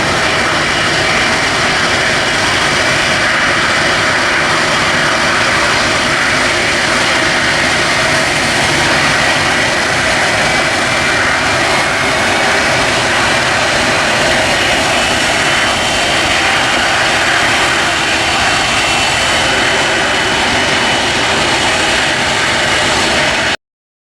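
Boeing 777 freighter's GE90 turbofan engines on landing approach: a loud, steady jet roar with a high whine, one whine tone rising slightly about halfway through. It cuts off suddenly near the end.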